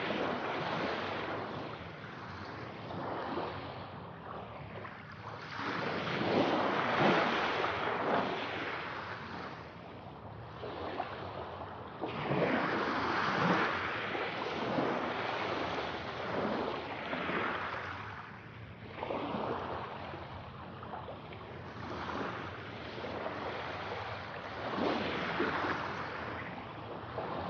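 Sea waves washing in and breaking on the shore, the surf rising and falling every few seconds.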